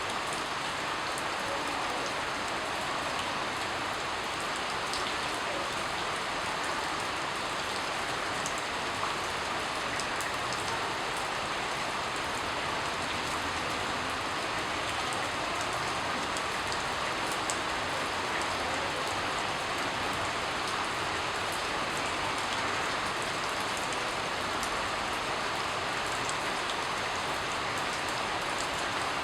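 Steady rain falling: a dense, even hiss, with scattered sharp ticks of individual drops.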